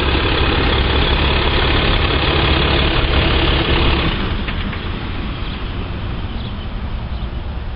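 6.7L Cummins inline-six turbo diesel of a 2014 Ram 2500 idling just after a remote start. It is loudest at first and drops noticeably in level about four seconds in.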